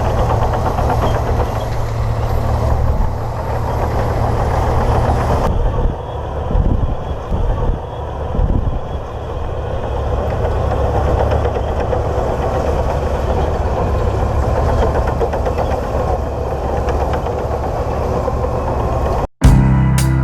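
Diesel engine of a Komatsu D58P bulldozer running steadily, with a few brief dips and surges in loudness partway through. It cuts off suddenly near the end, and drum-led music starts.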